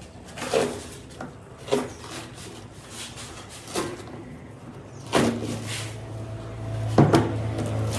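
Irregular knocks and clunks of hand work on the tractor tyre, about six in all, with a low steady hum coming in about five seconds in.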